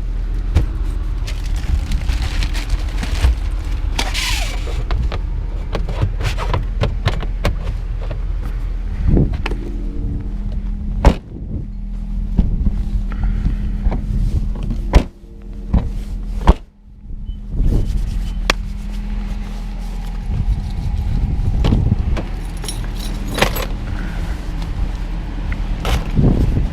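Road and drivetrain noise inside a 2017 Nissan Rogue's cabin at highway speed: a steady rumble with a low hum. Several sharp clicks and knocks break through it, and the sound briefly drops away a few times around the middle.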